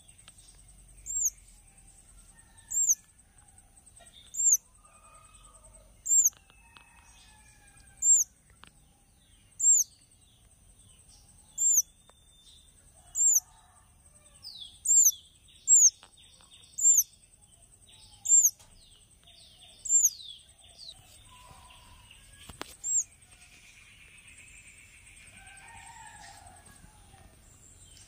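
A small bird's sharp, high call, repeated at a steady pace about every one and a half seconds and stopping a few seconds before the end, over softer scattered chirps.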